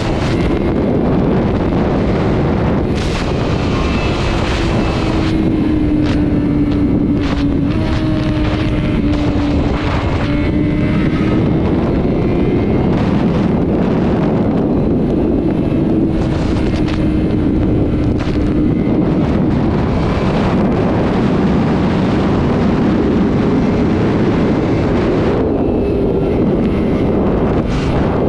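Sport bike engine pulling at steady high highway speed, its note holding nearly constant and drifting only slightly in pitch, under heavy wind rushing over the microphone.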